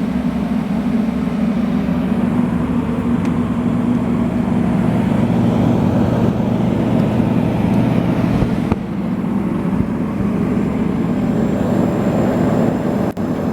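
Vintage Fedders window air conditioner running on its super cool setting: a steady blowing rush with a low hum. Its fan motor is a little off balance.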